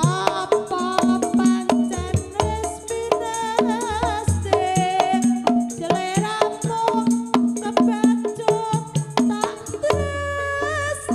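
Live Javanese folk dance-troupe music: a wavering high melody over a steady beat of drums and other struck percussion.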